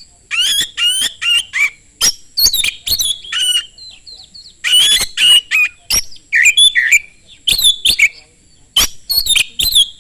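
Oriental magpie-robin (kacer) singing hard and fast: short, loud phrases of sweeping whistles and sharp, rasping notes, with brief pauses between them. A steady high-pitched tone runs underneath.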